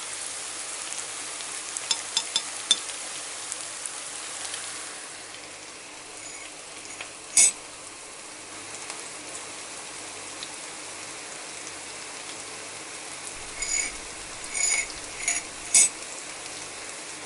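Food sizzling in a hot pan, the hiss easing off about five seconds in. Small clicks and several sharp, ringing metal clinks of a utensil against the pan come about seven seconds in and again in a cluster near the end.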